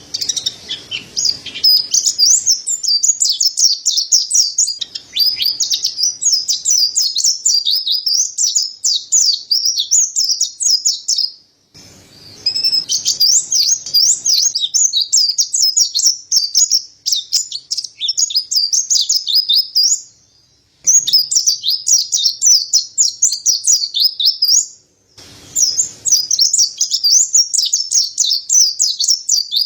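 Mountain white-eye (white-breasted pleci, Zosterops montanus) singing a fast, high, unbroken twittering song in long bouts, cut by three short, sudden silences.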